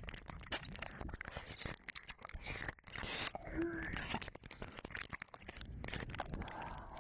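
Wet licking and mouth sounds made close to a binaural dummy-head ear microphone: a dense, irregular run of clicks and smacks with some breathy swells.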